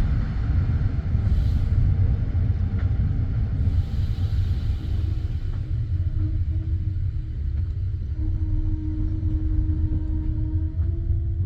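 Low, steady rumble of a passenger train carriage heard from inside. About five seconds in, a steady whining tone joins the rumble and holds until near the end.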